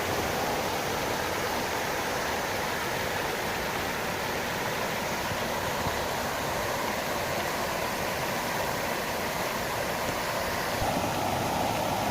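Park fountain's water falling and splashing in a steady rush. Near the end it grows slightly louder.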